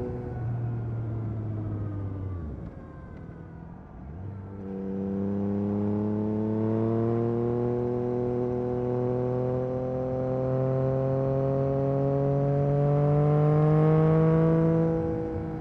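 2022 Yamaha MT-09 SP's inline three-cylinder engine through an Akrapovic carbon racing exhaust, heard while riding: the engine note falls as the bike slows, goes quieter for a moment about three seconds in, then climbs slowly and steadily in pitch under gradual acceleration, loudest near the end before dropping away.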